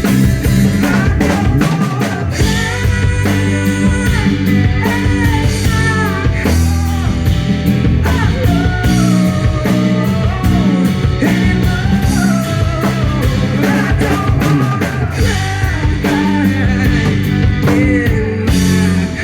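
Indie rock band playing live: drum kit and amplified instruments under a melody line that bends up and down.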